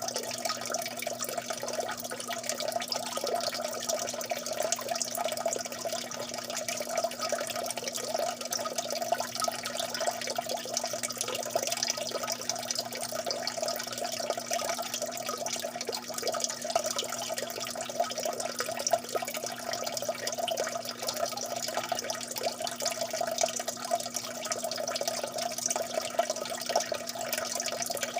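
Water dripping and trickling steadily, many small drops falling into water in a dense, unbroken patter.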